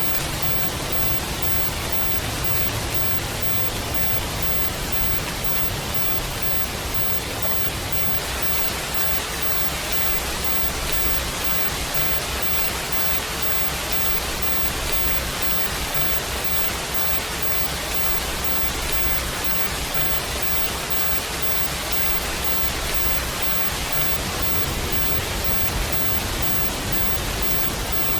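Steady rain: a dense, even hiss that stays the same throughout, with no separate drops or other events standing out.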